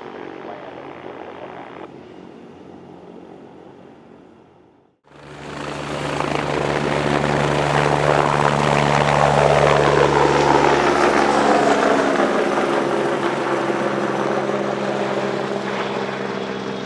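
Aircraft engine noise, quieter at first, then coming in suddenly and loud about five seconds in. As the aircraft passes close by, the tone falls in pitch.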